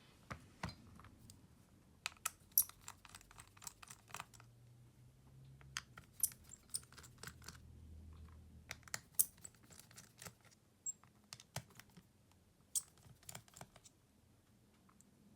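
Small hard clicks and taps of tools and parts being handled while a Xiaomi Redmi Note 11 smartphone is taken apart. They are irregular and sharp, and come in three clusters with short pauses between them.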